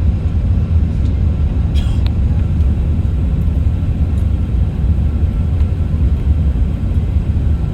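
Airbus A380 cabin noise heard from inside the cabin: a steady low rumble of the engines and airflow, with no change in pitch or loudness.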